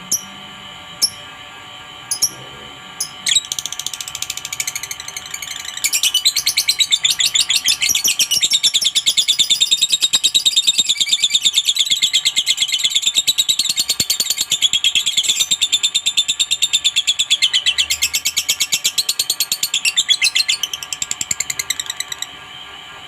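Lovebird calling: a few sharp single chirps, then from about three seconds in a long, rapid chattering trill, the 'ngekek' that lovebird keepers prize, running on until it stops near the end.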